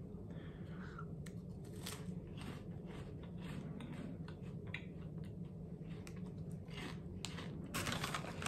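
Someone chewing a crunchy plant-based imitation pork rind, a run of small irregular crackles and crunches, with a denser cluster of crackles near the end.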